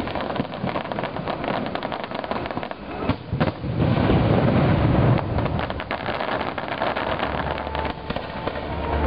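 Fireworks display: aerial shells bursting with dense crackling and booms, loudest and deepest about four to five seconds in. Steady tones come in near the end.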